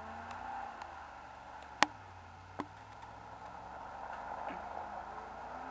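Faint, distant car engine pulling up an icy driveway, its pitch rising slightly near the end. A sharp click comes about two seconds in and a softer one just after.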